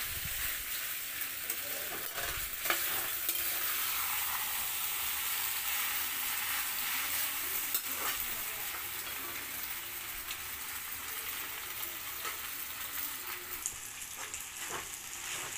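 Macaroni and Maggi noodles sizzling in a hot pan while a metal spatula stirs and scrapes through them, with a few sharp clicks of the spatula against the pan.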